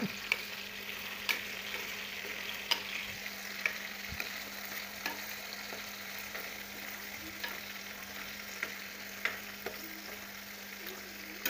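Chicken pieces frying in hot oil in a pan: a steady sizzle with scattered sharp pops. A steady low hum runs underneath.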